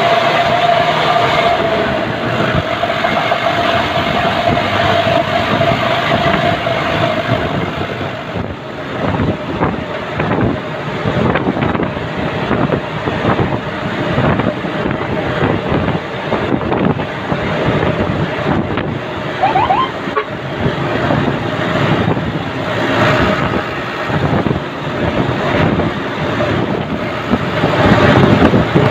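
Army truck on the move: engine running under dense road and wind noise. A steady whine fades out about seven seconds in, after which the ride is full of clattering and knocking rattles.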